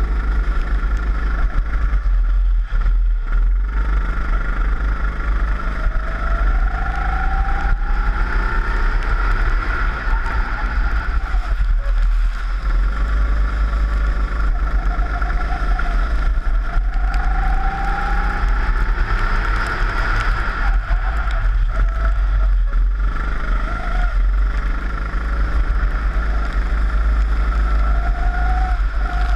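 Four-stroke rental kart engine at racing speed, its pitch rising several times as it revs up out of corners and falling back as it lifts into them, over a heavy low rumble of vibration and wind.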